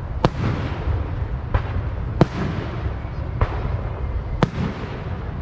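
Fireworks display going off: about five sharp bangs, roughly a second apart, over a steady low rumble.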